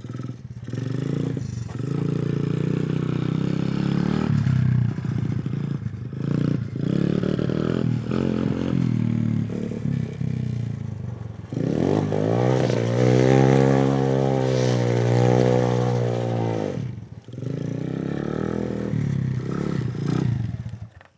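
Dirt bike engine revving hard, the throttle opened and closed again and again, with one long pull in the middle that climbs in pitch and holds high before dropping off. The engine sound cuts off abruptly at the end.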